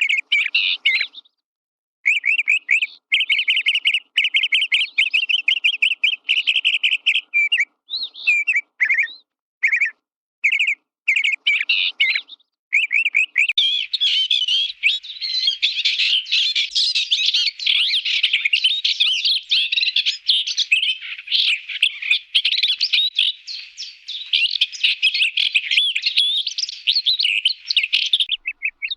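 Cartoon sound effect of birds chirping: first a fast, even trill of chirps, then short scattered bursts, then from about halfway in a dense chorus of many birds chirping at once.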